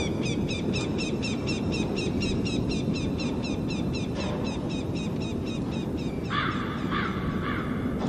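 Birds calling: rapid, evenly repeated high chirps, about four a second, over a steady low rumble. About six seconds in, lower, harsher calls take over.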